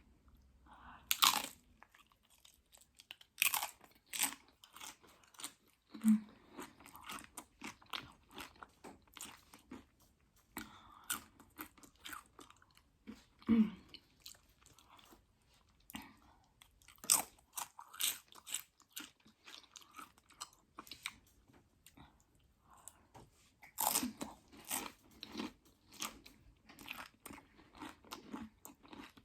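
Close-up crunching and chewing of Doritos Flamin' Hot loaded nachos: loud, sharp bites of tortilla chips, the loudest about a second in and near 17 and 24 seconds, with steady crunchy chewing in between.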